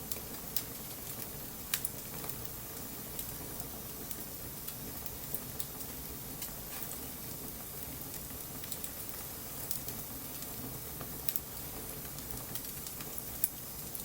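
Wood bonfire crackling in light rain: a steady hiss with scattered sharp pops and snaps.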